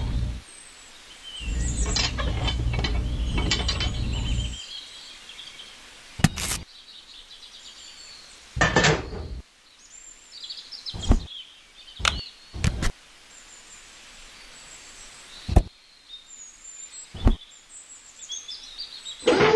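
Outdoor background with birds chirping faintly, broken by a low rumbling noise at the start and again from about a second and a half to four and a half seconds in, then a scatter of sharp clicks and knocks, about eight of them.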